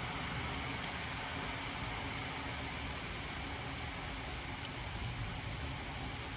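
Heavy rain pouring steadily in a thunderstorm downpour, with a few faint ticks of drops landing close by.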